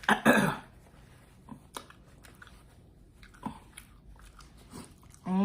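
Close-up mouth sounds of a person eating chicken wings: a loud bite and smack just after the start, then quieter chewing with small wet clicks. A short voiced 'mm' sound comes right at the end.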